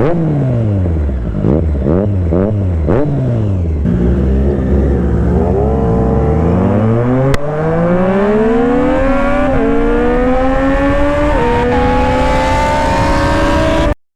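Sport motorcycle engine with an aftermarket exhaust, revved up and down in several quick blips. It then pulls hard under full acceleration, rising in pitch through two upshifts, and cuts off suddenly near the end.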